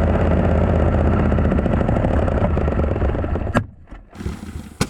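Oil-starved BMW 735i V8 engine clattering with a rapid knocking: its death rattle from running with the oil drained. About three and a half seconds in it cuts out with a sharp clack as the engine dies.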